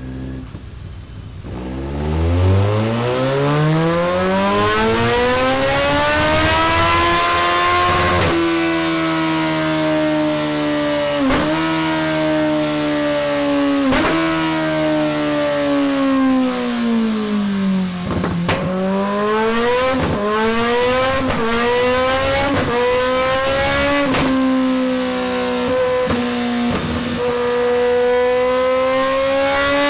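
Kawasaki Z1000SX's inline-four engine running hard on a dyno through a Delkevic tri-oval stainless steel exhaust. The revs climb steadily for the first several seconds, then hold high with repeated sharp momentary dips, fall away around the middle and rise again.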